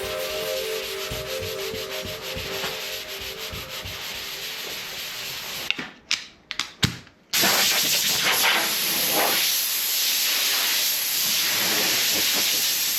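Sanding on a car's front-end bodywork during paint preparation: a scratchy rubbing hiss that stops for about a second and a half in the middle, with a few clicks, then carries on steadier and louder.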